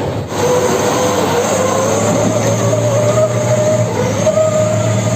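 Heavy machinery running: a steady engine hum with a wavering, squeal-like tone over it that drifts up and down in pitch.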